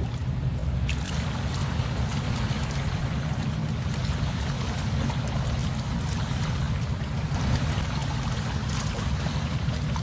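Wind buffeting the microphone in a steady low rumble over the continuous wash of surf, with a few faint clicks.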